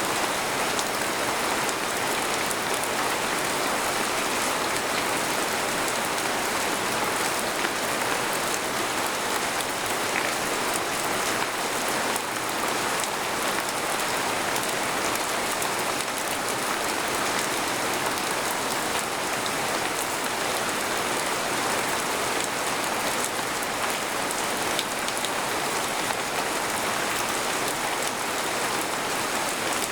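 Steady rain falling on a tent, with many single drops ticking on the fabric.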